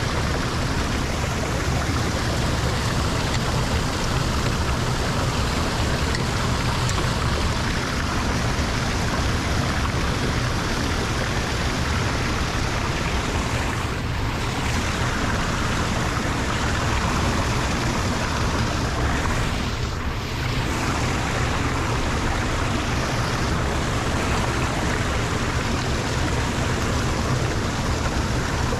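Water rushing steadily into a lake drain, a continuous loud flow.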